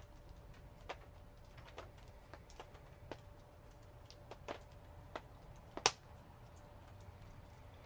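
Wood fire crackling: scattered sharp pops at irregular intervals, the loudest about six seconds in, over a faint steady hum.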